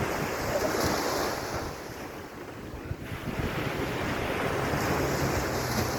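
Sea waves washing onto the beach, the surf swelling early on, easing off in the middle and building again near the end, with wind buffeting the microphone.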